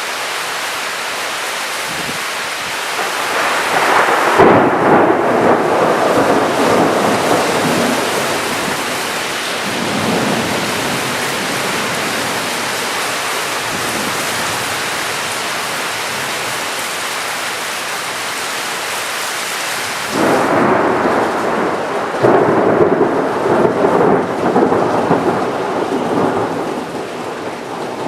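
Heavy rain falling steadily during a thunderstorm, with two long rolls of thunder: one building about four seconds in, the other breaking in suddenly about twenty seconds in.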